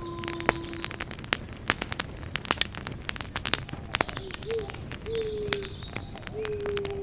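Wood fire crackling and popping in quick, irregular snaps over a low steady hiss of burning. In the second half, a bird gives a few short, low calls.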